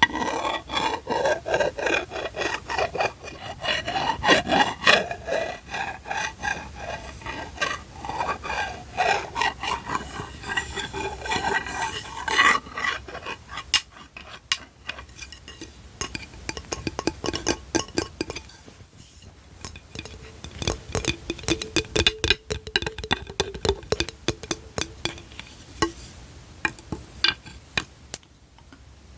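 ASMR tapping and scratching on hard household objects: rapid taps and scrapes, some of them making the object ring with a clear pitch, with rubbing in between. It gets quieter near the end.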